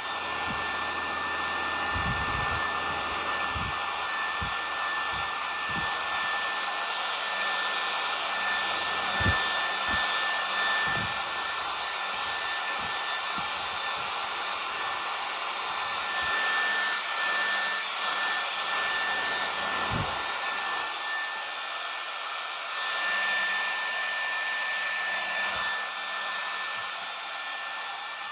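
Remington HC6550 cordless vacuum hair clipper running: a steady high motor whine over the rush of its built-in vacuum fan, with scattered low bumps as it is worked over the head.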